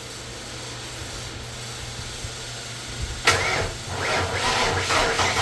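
Twin-turbo 351 Windsor Ford V8 starting about three seconds in, then running with a pulsing beat.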